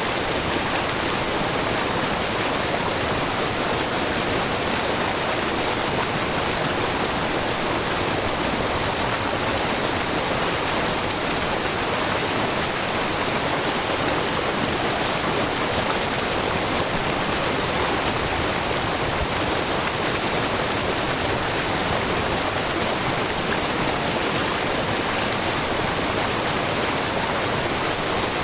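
A low, wide curtain waterfall of spring water spilling over a rock face: a steady, even rush and splash of falling water, with no change in level throughout.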